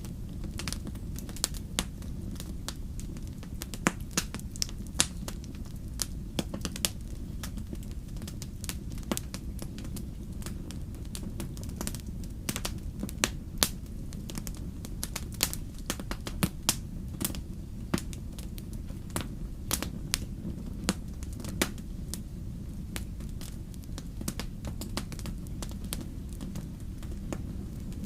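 Wood fire crackling and popping in a fireplace: irregular sharp snaps, a few of them louder, over a steady low rumble.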